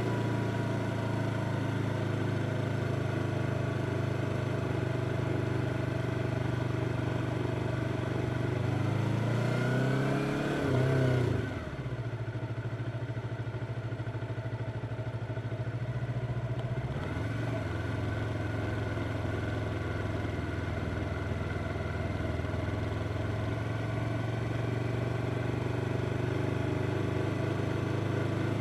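Yamaha R25's parallel-twin engine running under way. It revs up from about nine seconds in, cuts off sharply a couple of seconds later, and stays quieter for several seconds before steady running returns.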